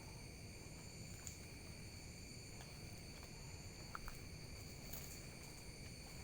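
Steady chorus of night insects such as crickets, several high, even trills at different pitches sounding together, with a couple of faint clicks about four seconds in.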